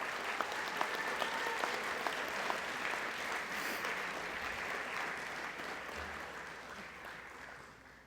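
Audience applauding steadily, the applause dying away over the last couple of seconds.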